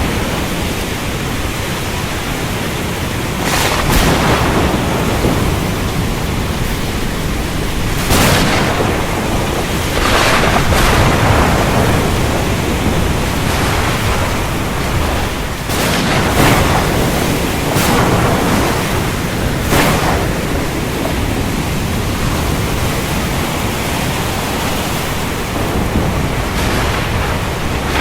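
Heavy rain falling steadily, with thunder cracking and rumbling through it in several short surges.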